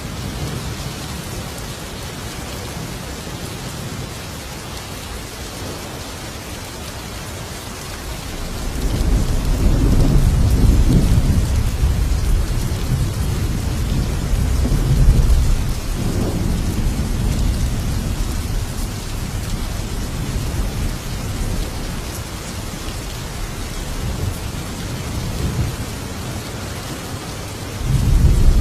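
Steady heavy rain with a long, deep roll of thunder that builds about eight seconds in, rumbles on for over ten seconds and fades away; another thunder roll begins near the end.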